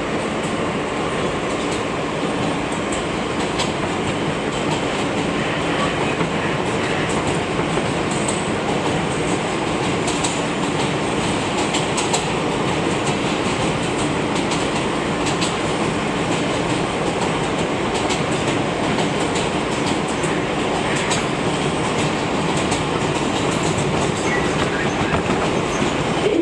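R160B subway train running between stations: a steady rumble of wheels on rail, with scattered sharp clicks over rail joints and a faint steady hum.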